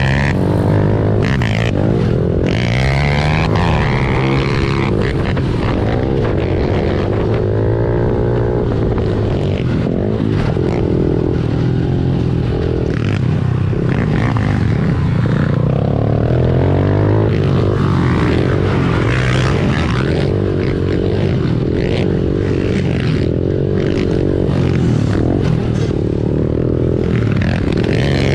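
Honda CRF110 pit bike's small air-cooled single-cylinder four-stroke engine under load, revs rising and falling again and again as it is ridden around a motocross track.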